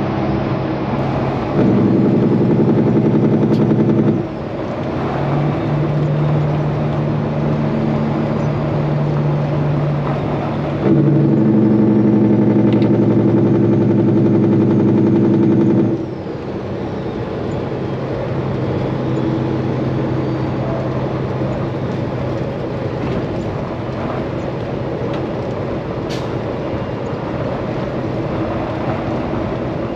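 Straight-piped Peterbilt 389 semi truck's diesel engine and exhaust running on the road, with two stretches of a few seconds each (about two seconds in and about eleven seconds in) where it gets louder under throttle before easing back to a steadier, quieter drone.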